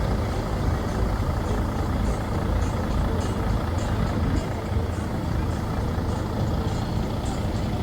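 An engine idling steadily, a low even rumble, with faint voices in the background.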